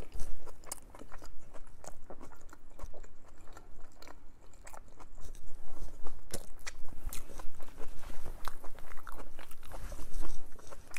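A person chewing a mouthful of food with the mouth closed: irregular crunches and mouth clicks, denser and louder in the second half.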